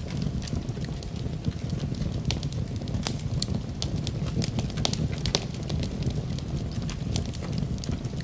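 Wood fire crackling in a fireplace: irregular sharp pops and snaps over a steady low rumble of the flames, with the even patter of rain mixed in.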